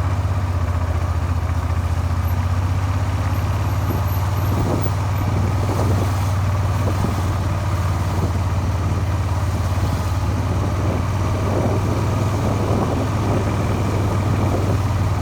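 Suzuki SV400's V-twin engine running at a steady speed. This engine's crankshaft was crudely repaired with a file, and the owner says it starts to rattle and knock above about 3000 rpm.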